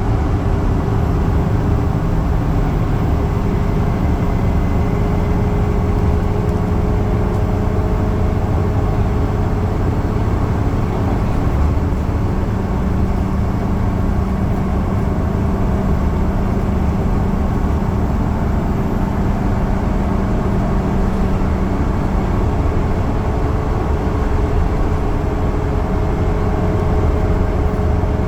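Steady engine drone and road noise of a Yutong bus cruising at speed, heard from inside the cabin, with a constant low hum.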